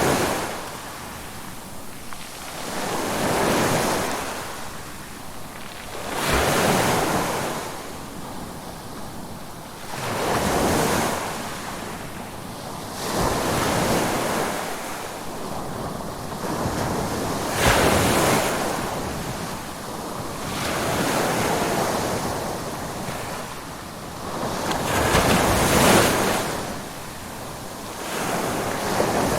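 Ocean waves breaking and washing in, one after another. Each rush of surf swells up and dies away, about every three to four seconds.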